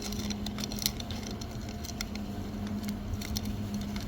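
Light, irregular clicks and scrapes of a saw chain being worked in a hand chainsaw sharpener, tooth by tooth, over a steady low hum.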